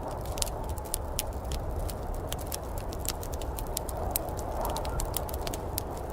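Wood fire crackling, with many irregular sharp pops and snaps over a steady low rumble and hiss.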